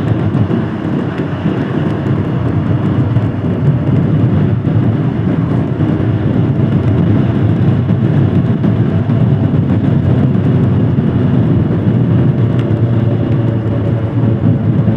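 Royal Enfield Himalayan Scram 411's single-cylinder engine running steadily while the motorcycle is ridden, its pitch easing slightly lower near the end.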